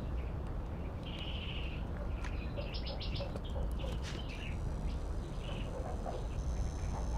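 Scattered short bird chirps, with a few clicks, over a steady low rumble.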